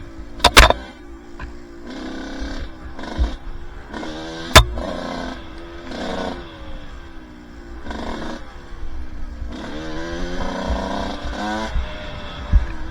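Two-stroke dirt bike engine revving up and down over and over under changing throttle, with two sharp knocks, about half a second in and again about four and a half seconds in.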